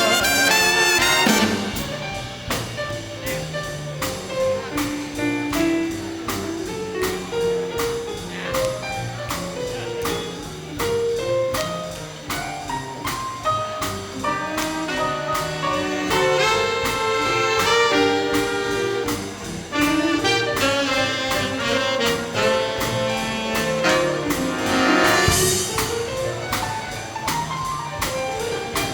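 Big band playing an instrumental swing passage, horns over a steady drum beat.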